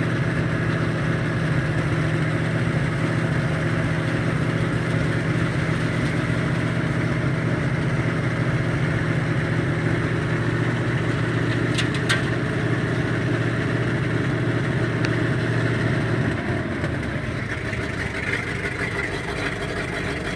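1976 Ford 1-ton dump truck's engine running steadily, its low hum dropping and the sound getting slightly quieter about sixteen seconds in. A couple of sharp clicks about twelve seconds in.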